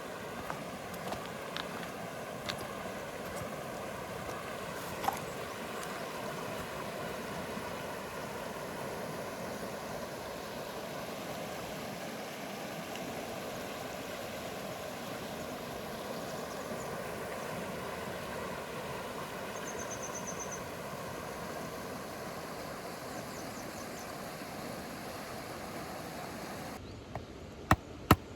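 Steady rush of rain and river water, with a few sharp ticks in the first few seconds. Near the end the sound changes abruptly and sharp chopping knocks begin, about two a second.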